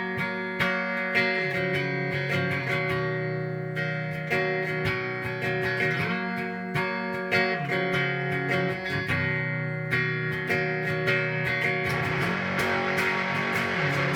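Mexican Fender Telecaster played through fuzz, overdrive, chorus and reverb pedals into a Peavey amp and 4x12 cabinet: distorted picked notes and chords with long sustain. Near the end the last chord is left ringing.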